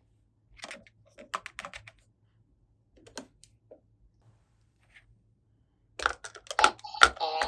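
Light clicks and taps of small plastic toy pieces being handled, scattered at first, then a dense run of louder clatter about six seconds in.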